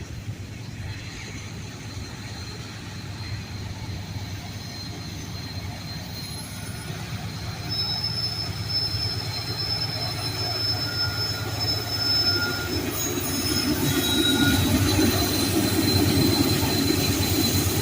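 Freight train cars rolling past, steel wheels squealing in thin high tones over a steady rumble that grows louder through the second half.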